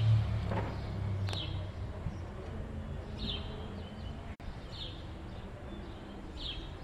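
A small bird chirping over and over, a short falling note about once a second. A low rumble fades out in the first second and a half.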